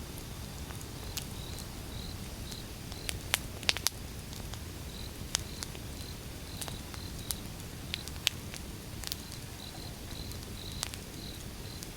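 Wood fire burning with a steady low rumble and irregular sharp crackles and pops, the loudest three in quick succession about three to four seconds in. A faint high chirp repeats steadily underneath.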